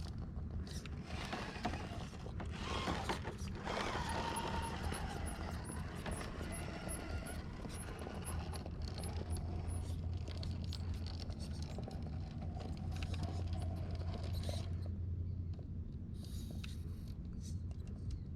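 1/10-scale RC rock crawler working over boulders: its electric motor and geartrain whine, rising and falling with the throttle, while the tyres and chassis scrape and click on the rock. The motor whine stops a few seconds before the end.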